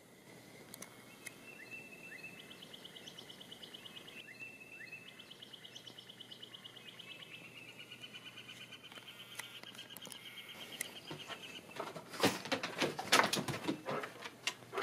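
A songbird singing fast, even, high trills, three in a row, the last the longest. Near the end a run of loud, sharp clicks and knocks takes over.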